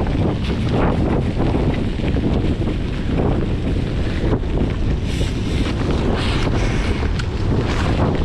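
Gale-force wind buffeting the microphone: a loud, heavy rumble that rises and falls with the gusts, with the hiss of surf behind it.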